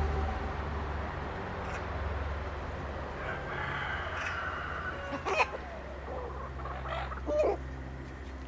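Chickens clucking, with a rooster crowing about halfway through and two short, loud calls after it. A steady low hum runs underneath.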